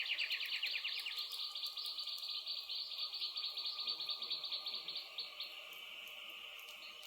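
A high, rapidly pulsing insect trill, cricket-like, that settles into a steadier buzz about five and a half seconds in. A few faint clicks from a crackling wood fire sit beneath it.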